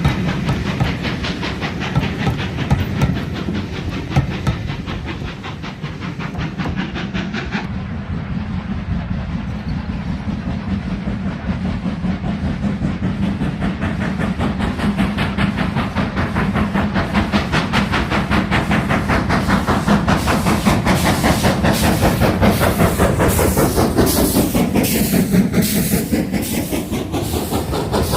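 Train running on the line, wheels clicking over the rail joints, with a hiss of steam. It grows louder through the second half as it comes past.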